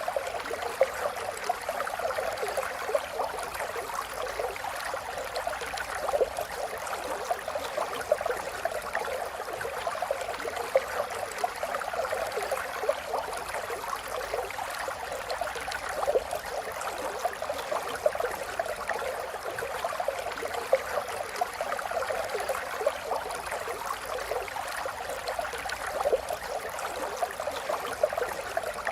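River water flowing and babbling steadily over stones, a continuous rush with many small splashes and gurgles.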